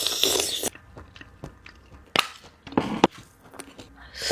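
Close-miked eating of squid from a seafood boil: a short hiss or slurp at first, then scattered wet clicks and smacks of chewing.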